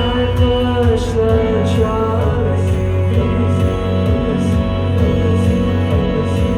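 A live band playing a song, with drums, bass and other amplified instruments, and some singing over it.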